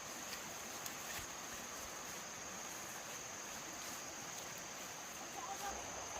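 Insects droning steadily in one continuous high-pitched band over soft outdoor background noise, with a few faint ticks about a second in and faint chirps near the end.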